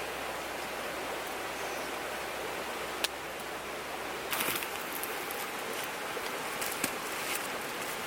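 Steady rush of flowing river water, with one sharp click about three seconds in and scattered short clicks and crackles through the second half.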